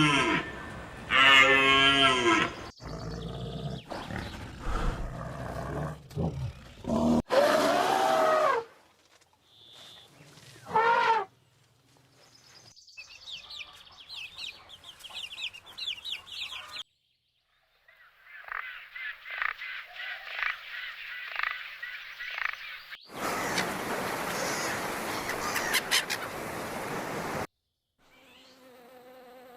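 A run of different animal sounds, one short clip after another: a cow mooing at the start, then several other animal calls and some high chirping, and an insect buzzing near the end.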